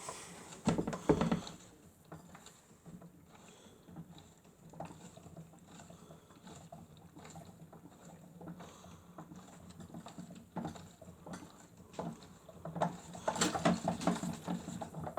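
Toy Miele W1 washing machine running its cycle: a steady low motor hum with water sloshing and light clatter as the drum turns, louder about a second in and again near the end.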